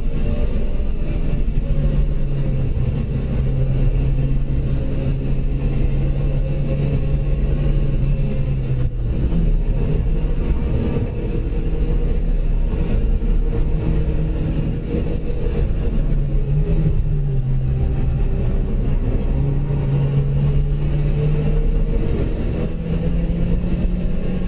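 Citroën DS3's engine running as the car is driven hard, heard from inside the cabin over a constant road and tyre rumble. The engine note holds fairly steady, breaks off briefly about nine seconds in, dips again later and climbs toward the end.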